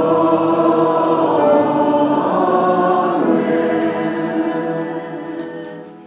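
A congregation singing a drawn-out sung response together with a sustained instrumental accompaniment, fading out about five seconds in.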